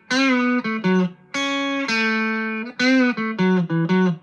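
Electric guitar on its bridge pickup played through a JHS Ross Distortion pedal with the distortion set at about a quarter: short phrases of chords that stop sharply between them, with bent notes near the start and again about three seconds in.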